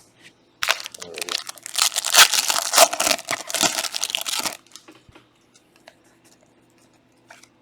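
Trading card pack wrappers crinkling and being torn open for about four seconds, followed by a few faint clicks.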